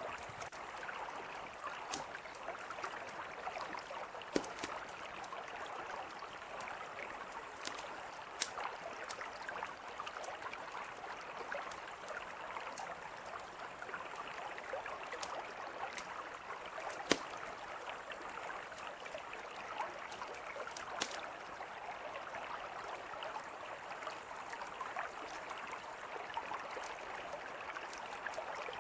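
Mountain river flowing steadily, with a campfire crackling over it: scattered sharp pops, a few louder ones standing out.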